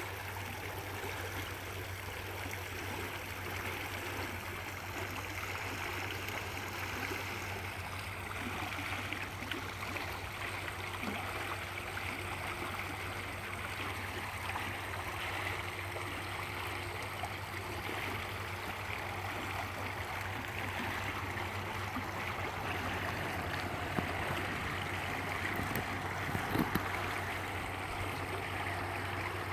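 Stream water flowing steadily, with a few small knocks near the end.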